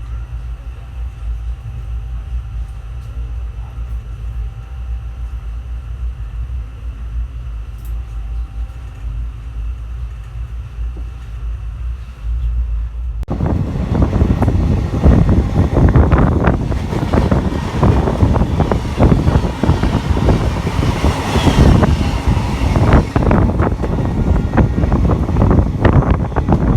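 Passenger train running on the track: a low steady rumble, then about halfway through a sudden jump to loud, dense clattering and rattling of wheels on rails.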